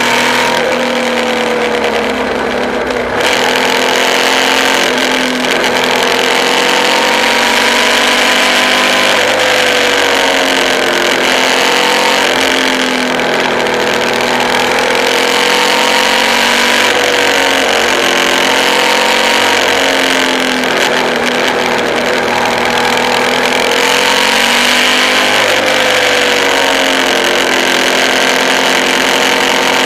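Suzuki V-Strom DL650's V-twin engine running under way, its pitch rising and falling every few seconds as the throttle opens and closes, over a steady rush of wind noise that grows louder about three seconds in.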